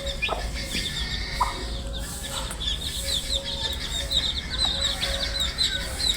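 Baby chicks peeping: many short, high, falling chirps overlapping, busier in the second half, over a low steady rumble.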